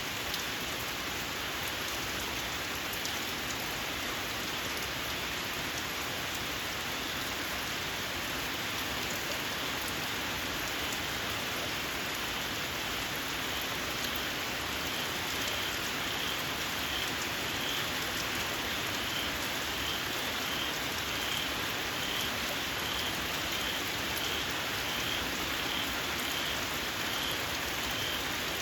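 Steady rain falling on the ground. From about halfway through, a small frog calls in the rain: a short, high-pitched squeak repeated about twice a second.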